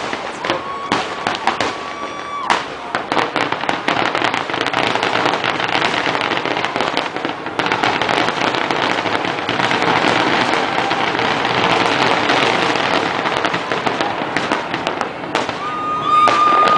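Fireworks finale barrage: rapid booms and bursts, thickening about halfway in into a dense, continuous crackle. A steady high whistle is heard near the start and again near the end.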